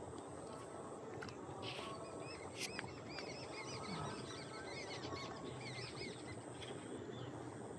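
Birds calling outdoors. A quick run of many short, high, arched chirps from a small bird lasts from about two seconds in to about six seconds in, over a steady low background chatter.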